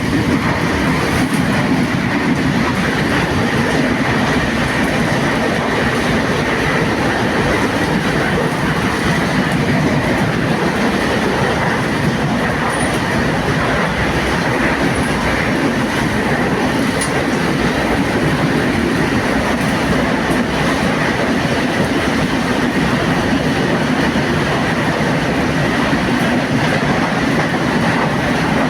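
Passenger train running steadily, its wheels rumbling and clattering on the rails with no letup.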